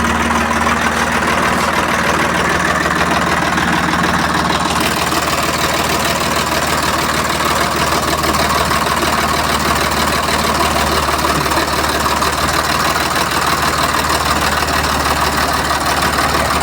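Diesel tractor engine running steadily at low revs, a constant low drone, with more hiss coming in about five seconds in.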